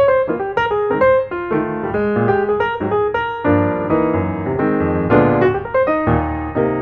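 Piano music: a quick, flowing run of struck notes with chords underneath, at an even loudness.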